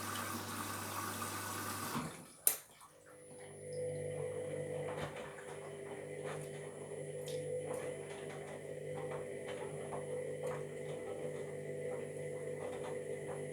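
Washing machine filling with water; the inflow cuts off abruptly about two seconds in, followed by a sharp click. Then a quieter steady hum with faint ticks as the drum starts to turn, with no grinding to be heard.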